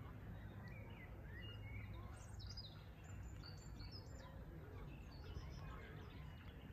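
Faint outdoor ambience: several small birds chirping in short, scattered calls over a low, steady background rumble.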